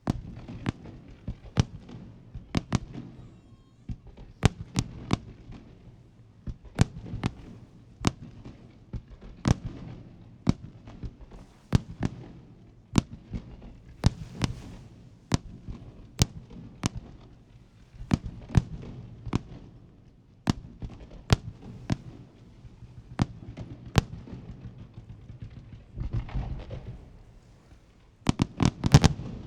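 Aerial firework shells bursting in a Jinli Fireworks display: sharp bangs at irregular intervals, about one or two a second, over a low rumble, with a quick cluster of bangs near the end.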